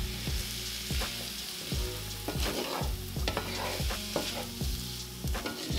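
Shrimp, onions and tomatoes sizzling in canola oil in a cast iron skillet over low heat, with a slotted spatula stirring and scraping, giving irregular knocks against the pan.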